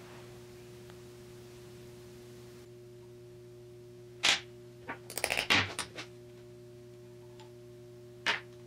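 Sharp metallic clicks and clinks from tools being handled during work on the differential: one about four seconds in, a quick run between five and six seconds, and another near the end, over a steady low hum.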